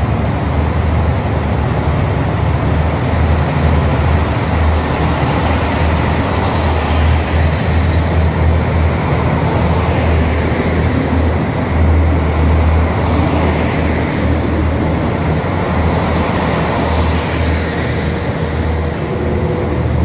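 Express train running past close by on the station track: a steady low drone with the rumble and clatter of wheels on rails throughout.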